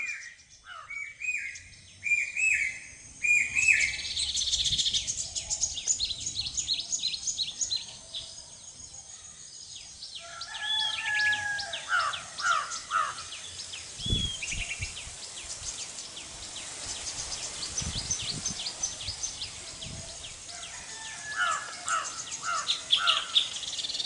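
Common iora calling. It gives a few short rising chirps, then a long, fast series of high twittering notes, and later several phrases of lower notes.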